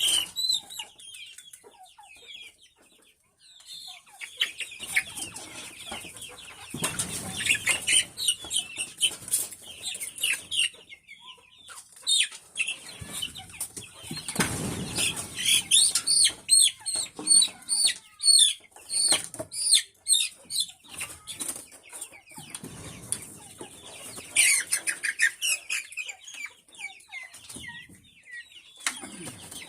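A flock of chickens clucking and calling, with repeated bursts of wing flapping.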